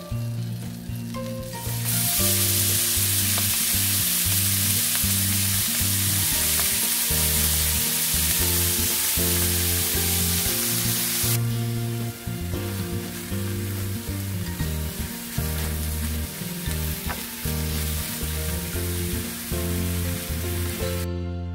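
Chopped bacon sizzling in hot butter in a stainless steel frying pan, loud from about two seconds in and easing off about halfway, then bacon and kimchi frying as they are stirred with a spatula. Background music plays underneath.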